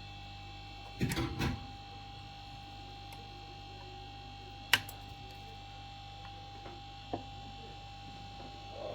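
Steady electrical hum of repair-bench equipment, with a short clatter of small tools about a second in and a sharp click near the middle.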